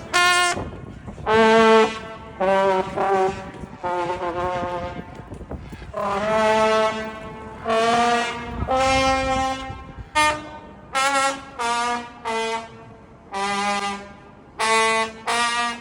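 A brass instrument, trombone-like, playing a tune of separate held notes, some short and clipped, some held for about a second.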